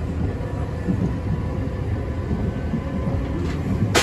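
Interior running noise of a 3000 series resistance-control electric commuter train cruising: a steady low rumble of wheels on rail with a faint steady whine. A single sharp click, like a wheel passing a rail joint, comes right at the end.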